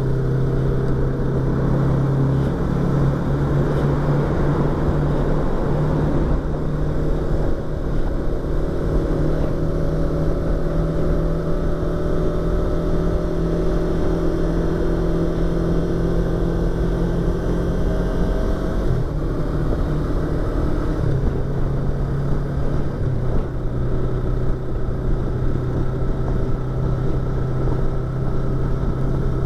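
Yamaha YZF-R25's parallel-twin engine and exhaust running under way, heard through a microphone inside the rider's helmet. The engine holds a steady note, breaks off briefly about two-thirds of the way in, then settles into a steady note again.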